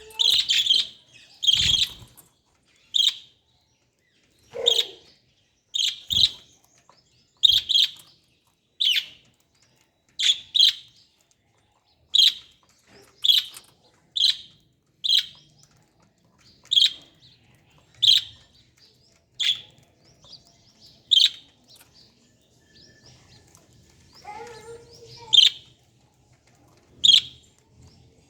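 Lovebirds chirping: a run of short, sharp, high-pitched calls, about one a second, some in quick pairs.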